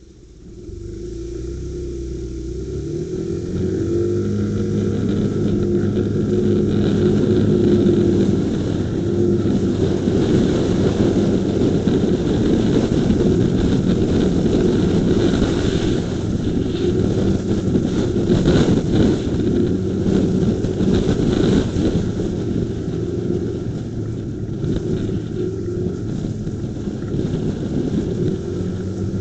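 Motorcycle engine pulling away and picking up speed over the first few seconds, then running steadily at riding speed, with wind rushing over the bike-mounted dashcam's microphone.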